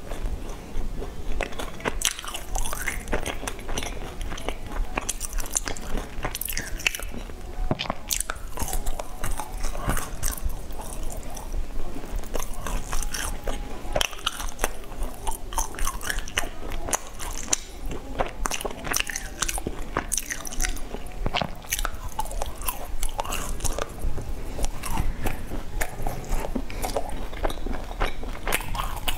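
Close-up crunching and chewing of a sesame-crusted flaky pastry, with crisp crackles as pieces are torn apart by hand; many small crunches follow one another throughout.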